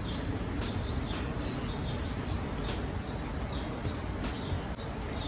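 Small bird chirping in short high notes about once a second over a steady low background hum of outdoor ambience.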